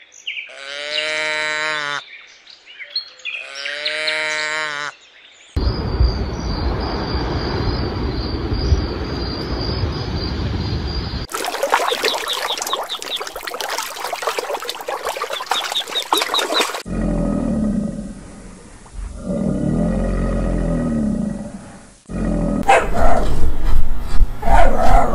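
Cows mooing, two long pitched calls one after the other. A string of other animal sounds follows, cut together, each changing abruptly to the next.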